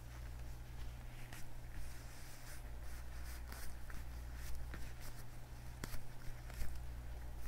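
Leather gloves on hands rubbing and creaking, in irregular short strokes with a few sharper ticks, over a steady low hum.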